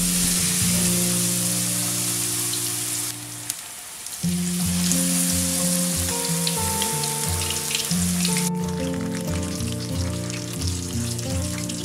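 Batter-coated spinach leaves deep-frying in hot oil in a wok. A dense sizzle is strongest as the leaves go in and thins into scattered crackling later.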